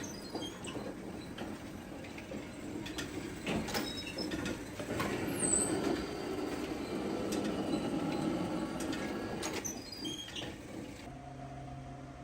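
Factory workshop noise: a steady mechanical rumble with scattered knocks and a few short high squeaks of metal. Near the end it gives way to a steady low hum.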